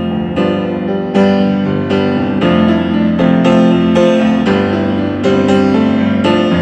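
Piano playing an instrumental passage of a rock song, with chords struck one after another and left to ring.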